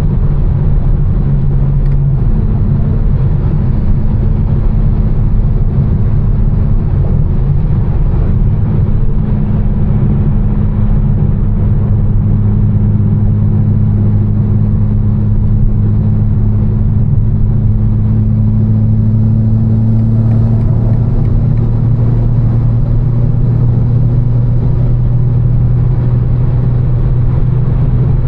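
A tuned BMW M4's twin-turbo straight-six, fitted with catless downpipes and an Fi exhaust, droning steadily while cruising. Its note drops in pitch about two seconds in and then holds level.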